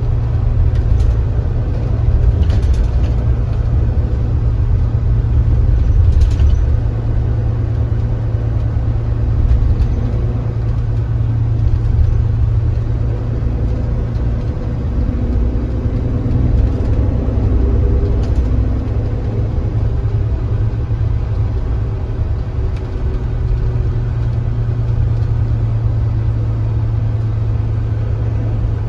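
Kia Granbird Sunshine coach running on the road: a steady low engine and road rumble, with a few faint brief rattles.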